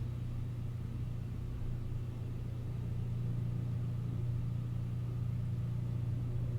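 Electric garage door opener motor running as the door opens, heard through the wall as a steady low hum.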